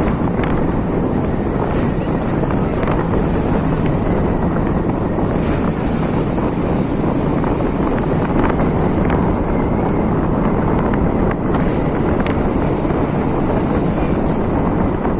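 Steady rush of wind buffeting the microphone over the running noise of a moving vehicle, with a few faint clicks.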